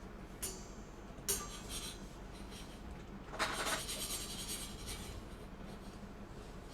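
Rasping, rubbing scrapes: two short strokes near the start, then a longer, louder one a little past the middle.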